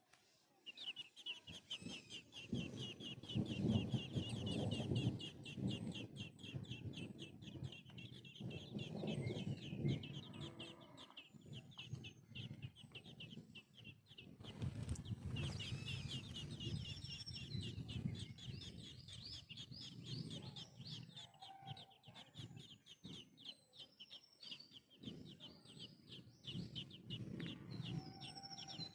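Birds calling: a fast, unbroken run of high chirps, with lower calls coming and going in bursts.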